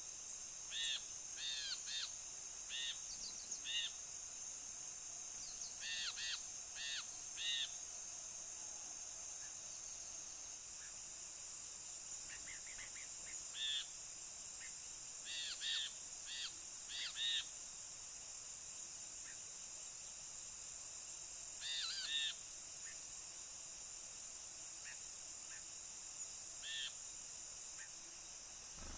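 Brinji bulbul giving short, arched call notes in quick clusters of two to four, repeated every few seconds. A steady high insect drone runs underneath.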